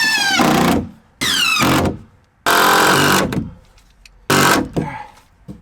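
Cordless drill-driver driving screws into a metal angle bracket: four short runs, the motor's whine falling in pitch during each as the screw draws tight.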